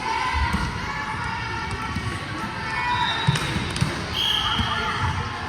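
Indoor volleyball in a gym: ball thuds among the overlapping voices of players and spectators, with a brief high steady tone about four seconds in.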